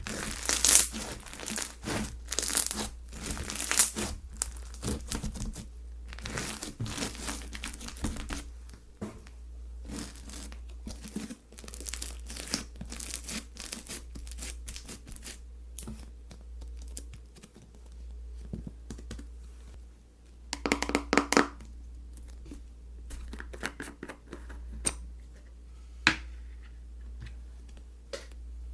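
Hands pressing, stretching and folding slime, making a run of dense crackles and pops. The crackling is thick for the first several seconds, then softer and sparser, with a loud burst of crackling a little past two-thirds of the way through.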